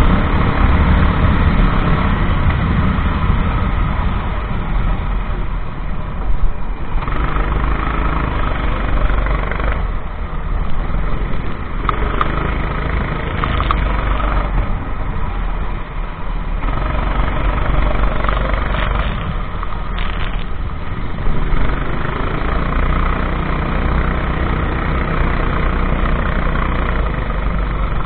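Kart engine running hard in a race. Its sound thins out briefly several times and builds back up again.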